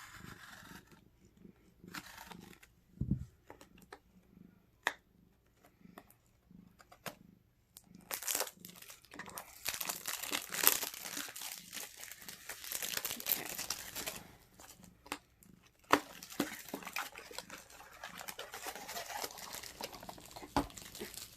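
Product packaging being unwrapped by hand: plastic and paper crinkling and tearing in two long spells in the second half, after scattered small taps and clicks.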